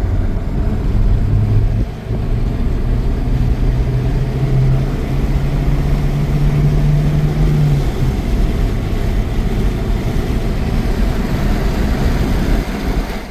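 An engine running under way, over a steady rushing noise. Its hum climbs in pitch over the first several seconds, then sinks into the rushing about eight seconds in. The sound cuts off abruptly at the end.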